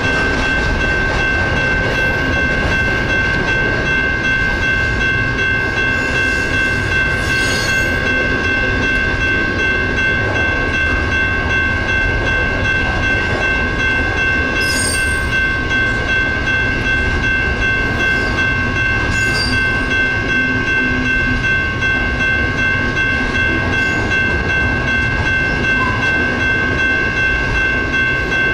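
Double-stack intermodal freight train cars rolling through a grade crossing with a steady rumble and a few sharp clanks. Over it the crossing signal bells ring continuously, their high tones steady.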